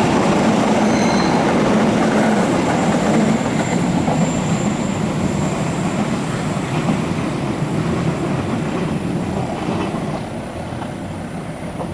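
Passenger train running on the rails with a steady rumble of wheels on track and faint high wheel squeal. The noise fades slowly over the last few seconds.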